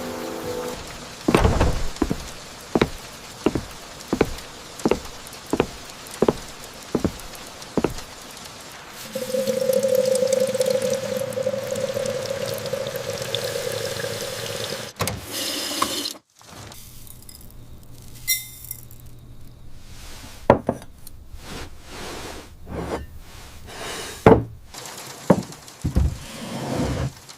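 Household sounds: a run of about ten evenly spaced knocks, then several seconds of steady running water, then scattered clicks and knocks.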